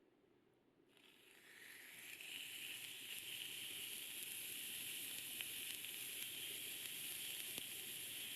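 Food sizzling on a hot cooking surface: a steady hiss that fades in about a second in, with a few faint pops.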